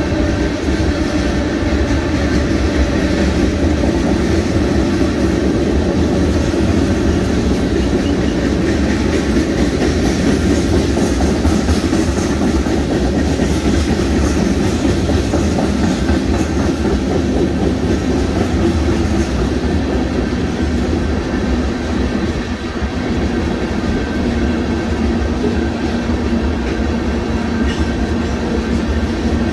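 Loaded open-top rock cars of a Union Pacific freight train rolling steadily past, steel wheels clacking over the rail joints.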